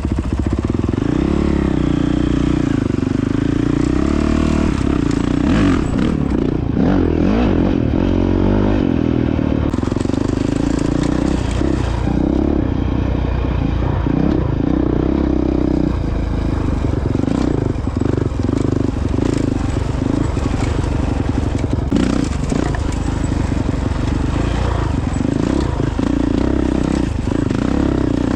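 Honda CRF450X single-cylinder four-stroke dirt bike engine running under way on an off-road trail, its pitch rising and falling with the throttle, with some clattering and scraping mixed in.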